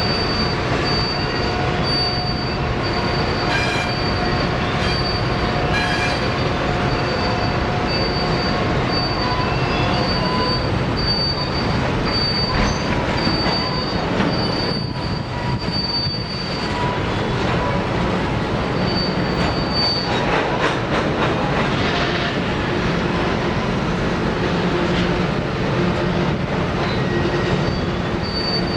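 Freight train cars rolling past, their steel wheels squealing in thin, high steady tones that come and go over the continuous noise of the train.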